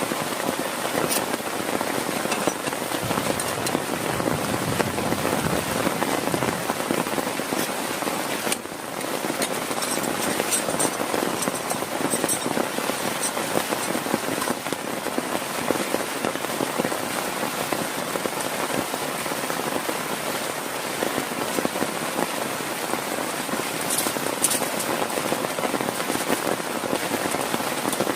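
Heavy rain falling steadily, a dense hiss of countless drop hits, with a brief lull about eight and a half seconds in.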